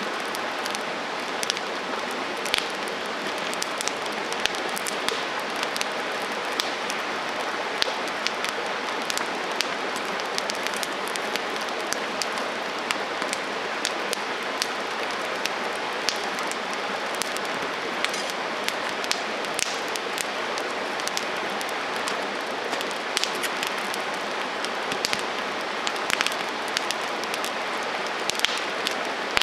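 Wood campfire burning: a steady hiss with frequent sharp crackles and pops.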